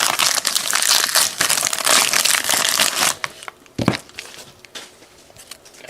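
Wrapper of a trading card pack being torn open and crinkled in the hands, a dense crackling for about three seconds, then a single sharp crinkle near the end.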